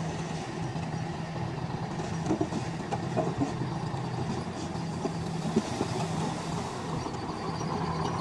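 A construction machine's engine running steadily, with scattered short knocks and clanks over it.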